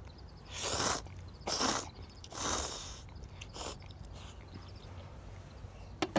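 Someone slurping ramen noodles: three long slurps in the first three seconds, then a short one.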